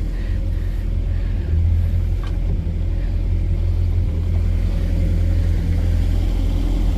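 Bayliner Capri's boat engine running with a steady low rumble, rising slightly about a second and a half in. The engine is hard to start, which the owner puts down to a carburetor needing a rebuild.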